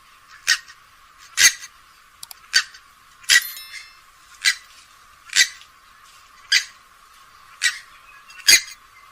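Grey-headed swamphen giving short, sharp calls in a steady series, about one a second, nine in all.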